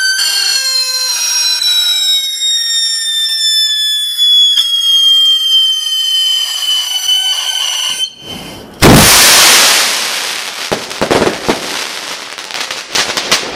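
Firework whistling with a high, slowly falling pitch for about eight seconds, then a loud bang about nine seconds in, followed by crackling for several seconds. Really loud, enough to leave ears ringing.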